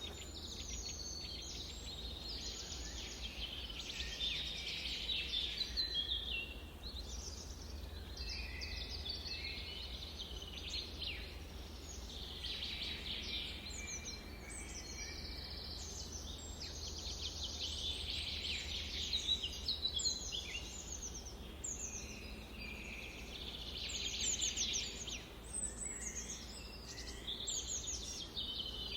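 Several songbirds singing and chirping over one another, quick high trills and chirps following each other throughout, over a faint steady low rumble.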